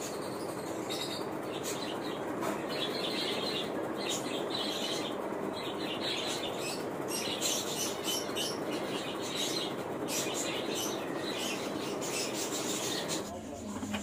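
Small birds chirping again and again over a steady rushing background noise; both cut off abruptly about a second before the end.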